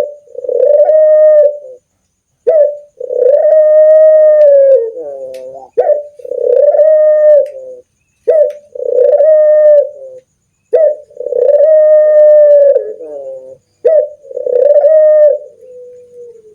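Puter doves (Barbary doves) cooing loud and close. About six repeated coos, each a short opening note followed by a long held note, come every two to three seconds.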